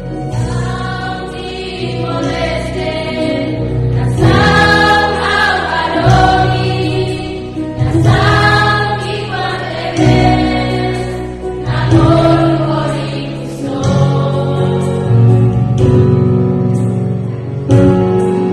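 Music: a choir singing a slow song over steady sustained low accompaniment, in phrases that swell every couple of seconds.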